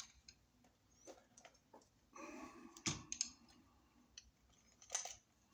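Faint scattered clicks and taps of a wire and hand tool working against a wall receptacle, as the white neutral wire is set under its terminal screw and pressure plate. A sharper click comes about three seconds in and another near five seconds.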